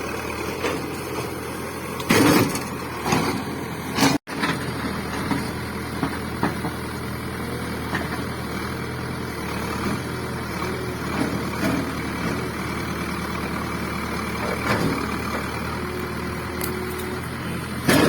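Cat 424B2 backhoe loader's diesel engine running steadily, with a few loud knocks in the first few seconds and another near the end.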